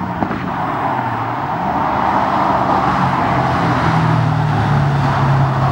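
Ford Mustang 5.0 L V8 with turbo mufflers, exhaust running under throttle, its note dropping, rising and settling a few times. The car has just had its X-pipe-only exhaust fitted with $30 turbo mufflers.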